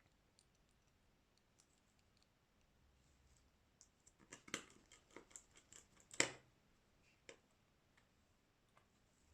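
A run of small, sharp clicks and taps from hand tools and parts being handled on a smartphone under repair. They come in a quick cluster around the middle, with the loudest near its end and one more click a moment later, against near silence.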